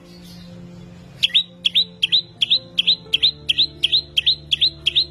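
A songbird calling in a fast, even run of short, sharp chirps, about five a second, starting about a second in, over a low steady musical drone.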